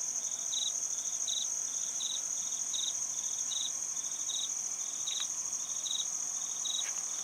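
Forest insects calling: a steady high-pitched drone, with a second insect chirping in short pulses about every three quarters of a second.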